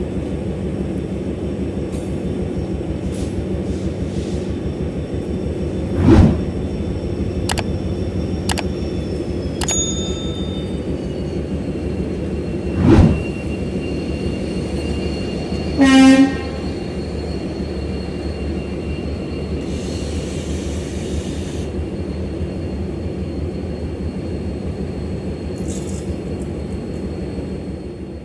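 Diesel locomotive running with a steady engine rumble as the train moves. There are two loud knocks, then a short horn blast past the middle.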